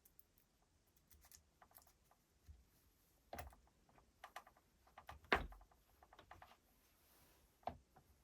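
Faint, irregular clicks and taps of small drill gearbox parts and tools being handled, with a louder knock about five seconds in.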